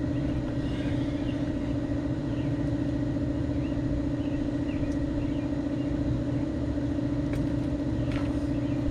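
A motor running steadily with an even low hum that holds one pitch throughout.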